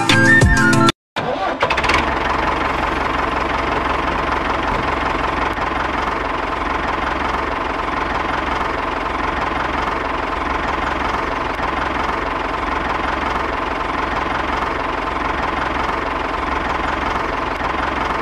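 Small motor of a DIY model tractor running steadily with a constant whine as it tows two loaded trailers. It starts about a second in, right after music cuts off.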